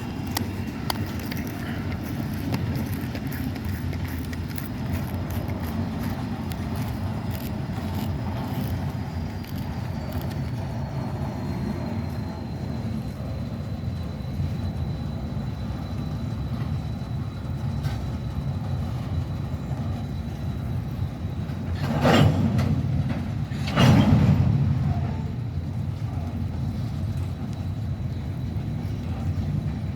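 Norfolk Southern freight train rolling past with a steady low rumble of wheels on rail. A faint high whine drifts slightly downward. About 22 and 24 seconds in come two brief, louder surges.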